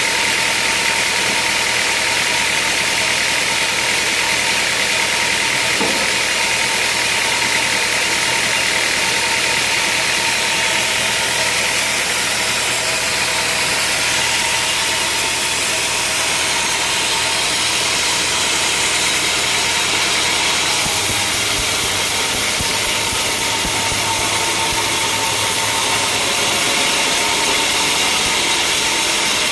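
Sawmill machinery running steadily, with a change in its sound about 21 seconds in.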